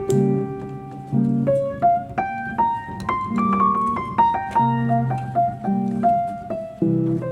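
Background music: a piano playing a melody over bass chords.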